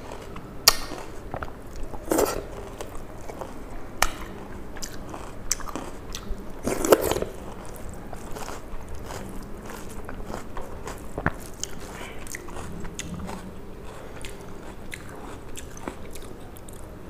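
Close-miked chewing and crunching of a mouthful of rice with beetroot raita, with a sharp crunch every second or few. Fingers mix the rice on a steel plate.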